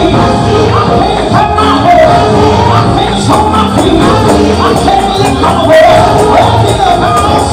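Loud live gospel music: a band with singing voices over a steady beat, with a tambourine in it.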